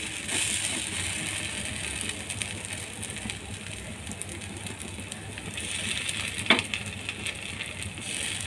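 Suji (semolina) pancake frying in oil on a nonstick tawa with a steady sizzle, with small scrapes and taps of a metal spatula on the pan and one sharp knock about six and a half seconds in.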